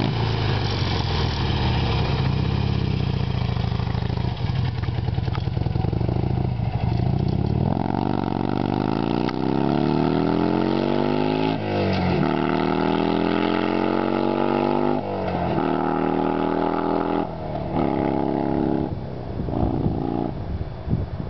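Buell XB9S V-twin running through a home-built MagnaFlow muffler with a mandrel-bent 90° elbow: a steady idle, then about seven seconds in the bike pulls away under throttle. The exhaust note climbs, drops at two gear changes, climbs again, and fades as the bike rides off.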